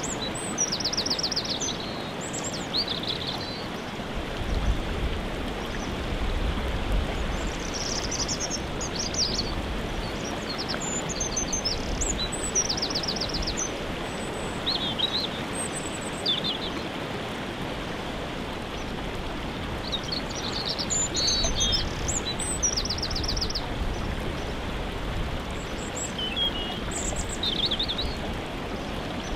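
Steady rush of a waterfall, with songbirds singing short trilled phrases over it every few seconds.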